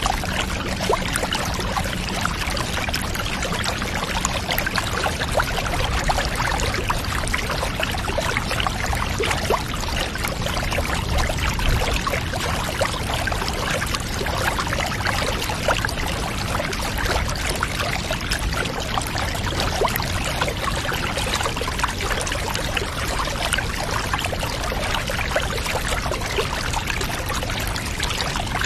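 Running water pouring and trickling without a break, a dense, even splashing hiss.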